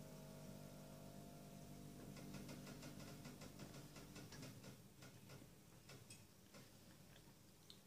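Near silence, with a run of faint, irregular soft clicks from about two seconds in, a few a second, dying away after about six seconds: wet mouth sounds of a person chewing a soft sweet with the mouth closed. A faint low hum fades out midway.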